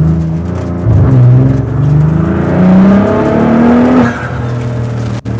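Twin-turbocharged 3.0-litre VR6 of the Volkswagen Design Vision GTI concept accelerating hard, its note climbing in steps through the gears, then dropping to a lower, steady note about four seconds in.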